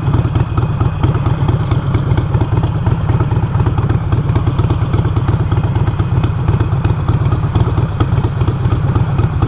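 Harley-Davidson Iron 883's air-cooled V-twin engine running steadily under the rider, a loud low pulsing exhaust note with no clear revving.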